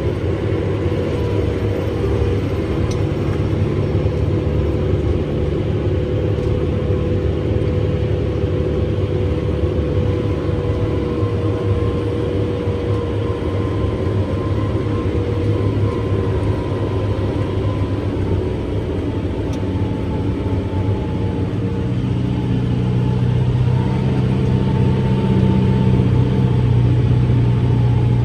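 Kubota M7-172 tractor's four-cylinder diesel running steadily under load, heard from inside the cab, with the pull-type New Holland FP230 forage harvester chopping corn behind it; a steady whine sits over a low hum. The sound grows louder and deeper in the last several seconds.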